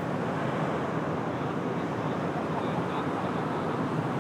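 Steady rushing noise of road traffic, vehicles going past on the road.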